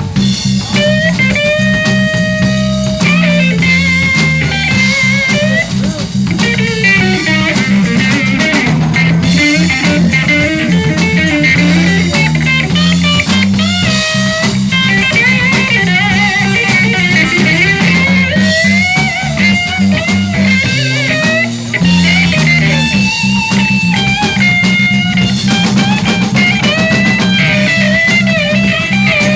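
Live blues band playing, led by a guitar solo with many bent and sliding notes over bass guitar and drums.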